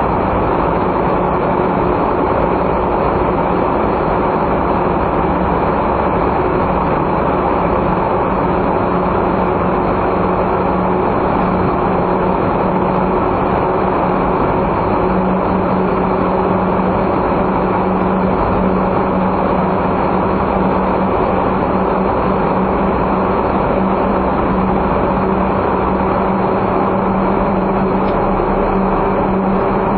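Steady engine drone and road noise of a non-turbo kei car under way, heard from the car; a low hum in the engine note grows stronger about halfway through.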